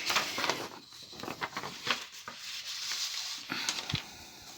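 Sheets of paper being handled and rustled, with irregular light taps and rubbing.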